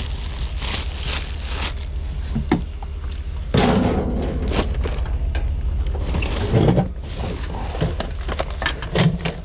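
Discarded junk being handled and shifted while rummaging through a pile for scrap: irregular knocks, clatters and scrapes, busiest in the middle, over a steady low rumble.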